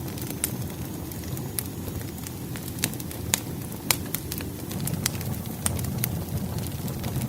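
Firewood burning in a fireplace: a steady low rumble of flame under sharp, irregular crackles and pops, the loudest few near the middle.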